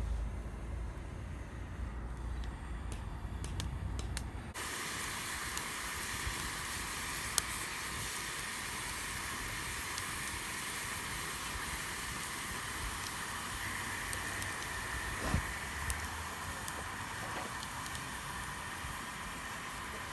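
A low rumble with a few light ticks, then about four and a half seconds in a steady hiss starts abruptly and runs on evenly.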